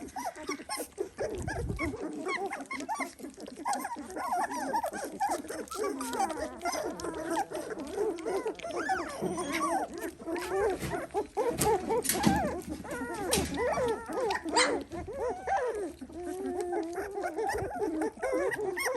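Several three-week-old Dalmatian puppies whining and squeaking while being hand-fed, many overlapping cries wavering up and down in pitch, with a few sharp clicks around the middle.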